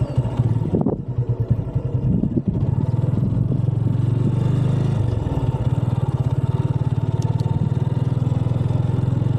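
Motorcycle engine running at low revs, uneven at first, then holding a steady note from about two and a half seconds in.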